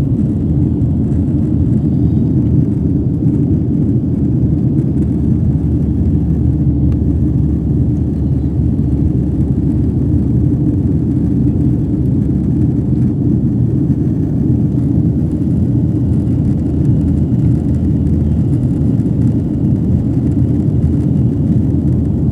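Steady low rumble of an airliner heard from inside the cabin: engine and airflow noise, unchanging throughout.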